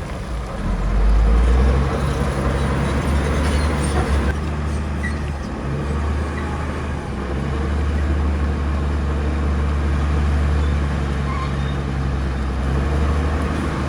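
Diesel engine of heavy earthmoving machinery running steadily, with a deep low hum that swells louder for a moment about a second in.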